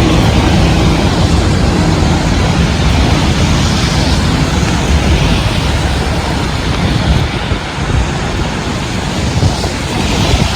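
Heavy rain with strong gusting wind blowing on the microphone, a steady rushing hiss over an uneven low rumble.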